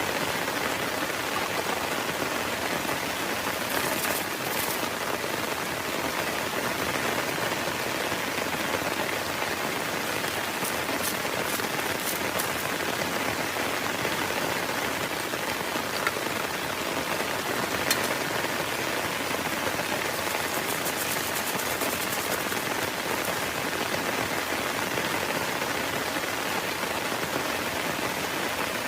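Heavy rain falling steadily on a tent, with scattered sharper drop taps.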